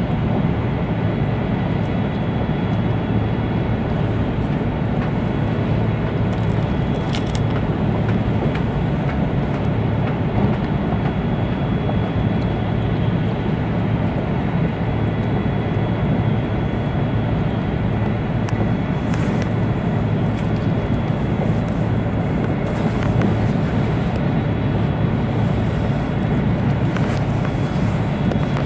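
Steady running noise heard inside an E2-series Tohoku Shinkansen car at speed: an even low rumble with faint high tones and a few light clicks.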